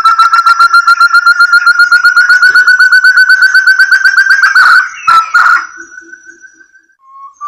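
Lure recording of a forest partridge (burung terung / puyuh hutan) calling: a fast run of clear whistled notes that climbs slowly in pitch, breaking off about five seconds in with a couple of clicks, then a short fainter trill before the series starts again near the end.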